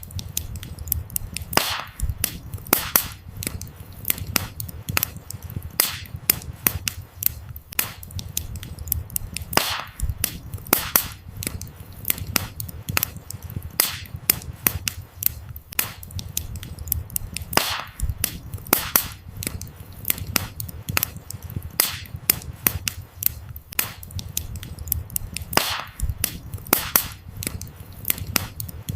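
Burning firewood crackling, with irregular sharp snaps and pops over a low steady rumble of flames.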